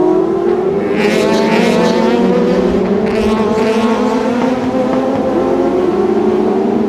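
Touring car engines running at high revs under acceleration, their pitch climbing slowly, with brief rasping flares about a second in and again about three seconds in.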